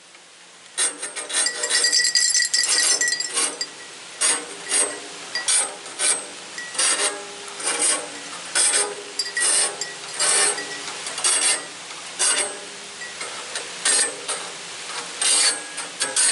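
Hand file rasping across the teeth of a sawmill band blade, stroke after stroke at a little over one a second, with a faint metallic ring under the first strokes.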